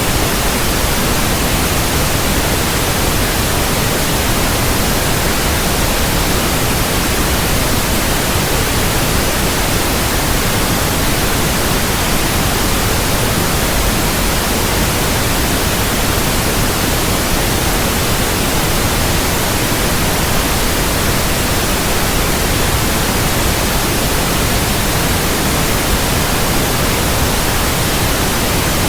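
Steady, loud synthetic white noise: an even, unbroken hiss across the whole range, with no change or events.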